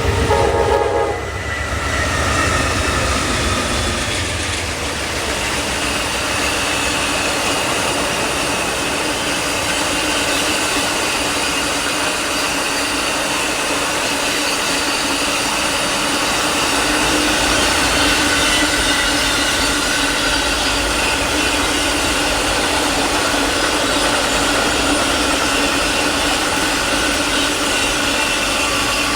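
Amtrak Auto Train passing: a short horn blast at the start, then the long, steady rolling noise of its cars going by, with faint clickety-clack and a few steady high-pitched tones over the rumble.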